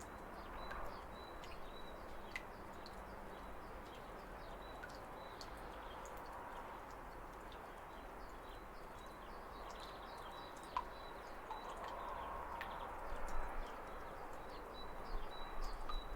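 Waterfall running with a steady rushing, and small birds chirping in many short calls over it.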